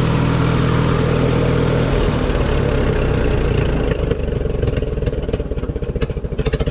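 1954 Minneapolis-Moline UBU tractor engine, freshly tuned up, running steadily faster than idle, then throttled down about two seconds in. It slows further and settles to a low idle with separate, even firing beats as the idle is set.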